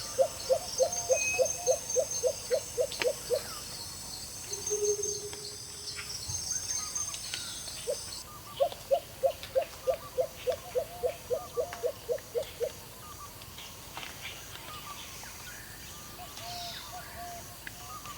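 Outdoor wildlife ambience: an animal gives a run of rapid low calls, about four a second, at the start and again midway. High insect chirping runs through the first half, with scattered bird chirps throughout.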